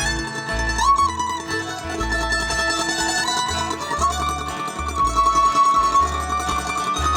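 Acoustic bluegrass band playing an instrumental break: plucked mandolin and guitar with a melody of long, sliding notes over stepped bass notes.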